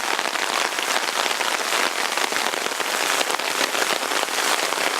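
Hard rain pattering steadily on surfaces, a dense hiss of many fine drops.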